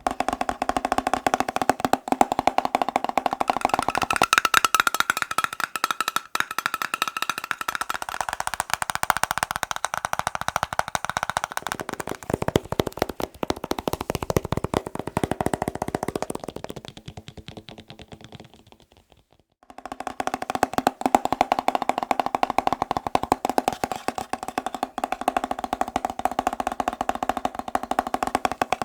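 Fast tapping on a series of hard objects, each giving its own ringing tone under the rapid clicks. The tapping fades out about two-thirds of the way in, stops for a moment, then starts again on another object.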